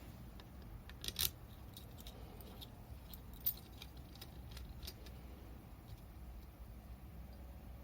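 Small metal pieces clinking and tapping: a few scattered clicks, with a louder pair about a second in and another sharp one a little later, over a low steady hum.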